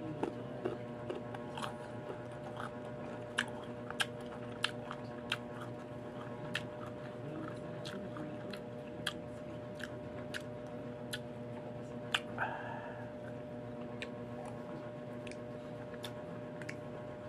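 Crisp, crunchy chewing of unripe green mango, with irregular sharp crunches about every half second to a second, over a steady background hum.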